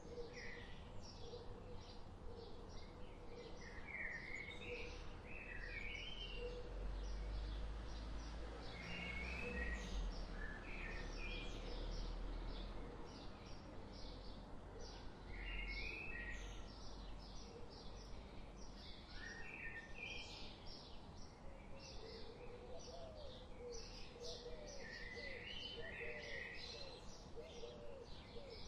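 Wild birds chirping and singing: many quick high chirps throughout, mixed with short repeated song phrases, and a run of lower notes near the end. A low rumble sits under the birds for several seconds in the middle.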